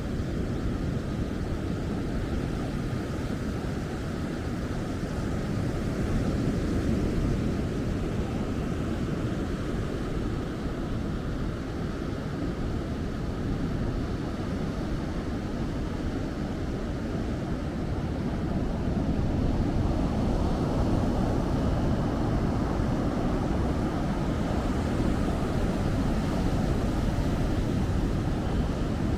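Ocean surf on the beach: a steady low rushing with no distinct breaks, a little louder about two-thirds of the way through.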